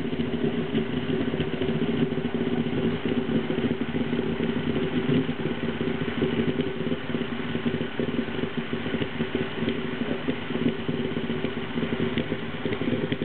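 Bodum Santos electric vacuum coffee maker bubbling steadily with faint crackles as boiling water is pushed up from the base into the upper bowl, over the steady running of a dishwasher.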